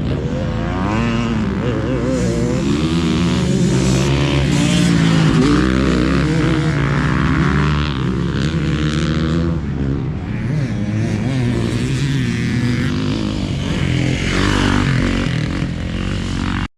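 Several motocross bikes racing together, their engines revving up and down with overlapping, wavering pitches. The sound cuts off suddenly at the end.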